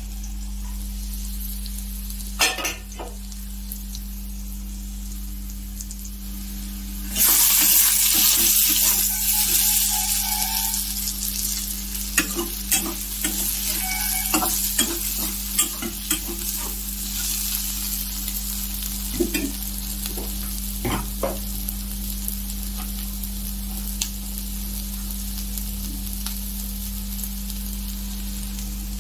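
Sliced potatoes, onion and green chillies going into hot oil in a metal pan with a sudden loud sizzle about seven seconds in. The sizzle then settles into steady frying as the vegetables are stirred, with the spatula scraping and clinking against the pan now and then, over a steady low hum.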